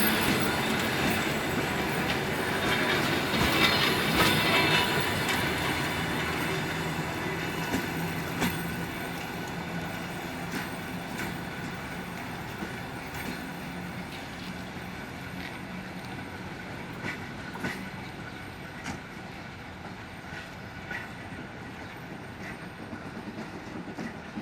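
Suburban train running on rails, with wheel squeal and rumble, growing steadily quieter through the clip. Scattered sharp clacks sound over rail joints in the second half.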